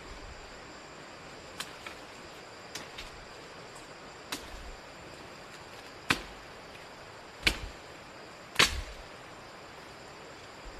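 A series of sharp knocks or cracks, a few light ones and then three louder ones spaced a second or so apart, over a steady outdoor hiss with faint insect-like high tones.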